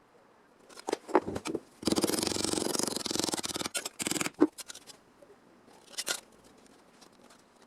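A power tool working on car body sheet metal in a buzzing burst of about two seconds, with scattered clicks and taps before and after it.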